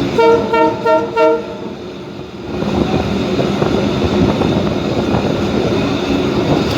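A horn sounds a quick run of three or four short toots in the first second and a half, then the steady running rumble of the train carriage takes over.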